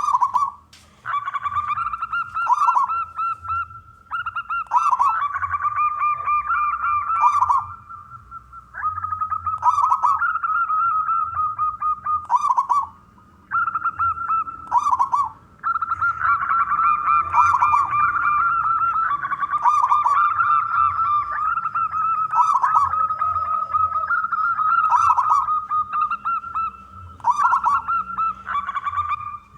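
Zebra dove (perkutut) cooing: long runs of rapid, rolling coo notes, phrase after phrase with brief pauses between them.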